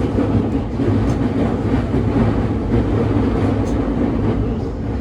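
JR East E231-500 series commuter train running at speed, heard from motor car MoHa E231-529: a steady rumble of wheels on rails and traction motors.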